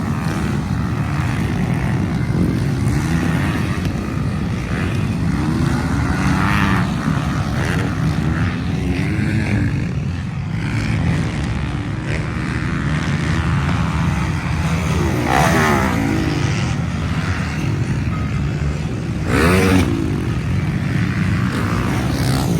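Motocross bikes racing, engines revving and running on and off the throttle. Two bikes pass close, each rising in loudness with the engine pitch dropping as it goes by: once about two-thirds of the way in and again near the end.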